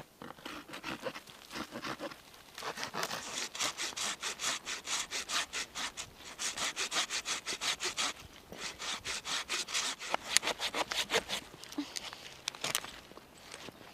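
Hand saw cutting through wood with quick, regular back-and-forth strokes, in two runs with a brief pause about eight seconds in.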